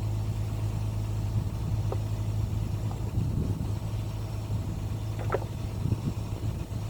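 Excavator's diesel engine running steadily, with a few short clinks from working the stones, the clearest about five seconds in.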